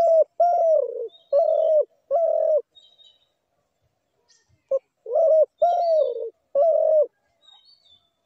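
Spotted dove cooing: two phrases about four seconds apart, each a short note followed by three or four falling coos. Faint high chirps from other small birds are heard between them.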